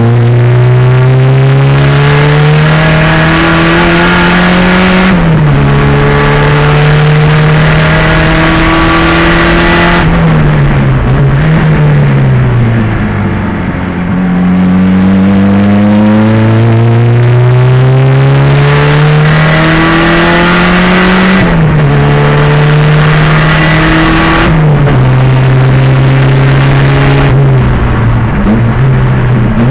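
Racing 1987 Pontiac Fiero's turbocharged 2.0-litre engine pulling hard through the gears, with an upshift about five seconds in. It comes down in steps under braking and downshifts around the middle, then climbs again through another upshift, and winds down with more downshifts near the end.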